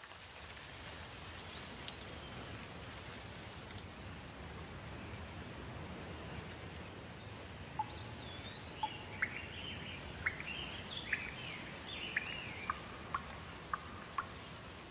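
Birds chirping over a steady outdoor hiss. One call comes about a second and a half in, then a run of short, sharp chirps from about eight seconds on.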